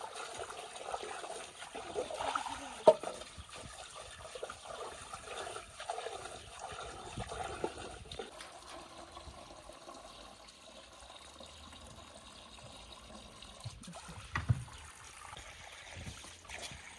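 Water trickling and splashing, as in washing something by hand, busier in the first half and quieter later. There is a sharp knock about three seconds in and another about fourteen seconds in.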